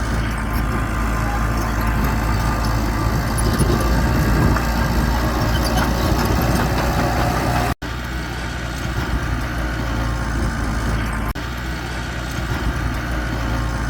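Heavy earthmoving machinery's diesel engine running steadily, with a brief cut to silence about eight seconds in.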